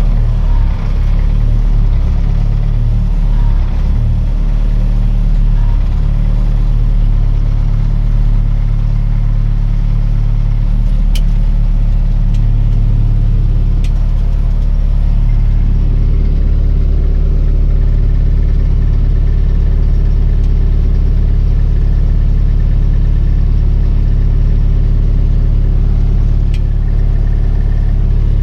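Tractor engine running steadily and loudly, its note settling about halfway through, with a few faint clicks.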